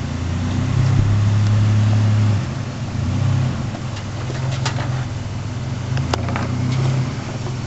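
Nissan Frontier pickup engine running at low revs as the truck crawls over rocks. It rises in level for about two seconds near the start, then settles back, with a couple of sharp clicks in the second half.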